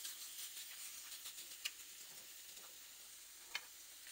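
Chicken fillets sizzling on a very hot griddle pan: a faint, steady hiss with two sharp pops, one near the middle and one near the end.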